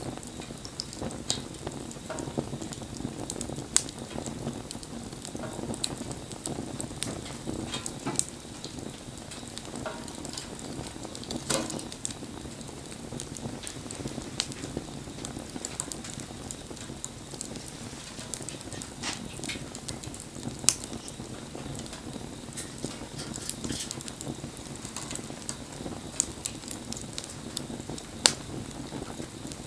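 Wood fire burning: a steady low rush of flame with frequent small crackles and a few sharp louder pops scattered through it.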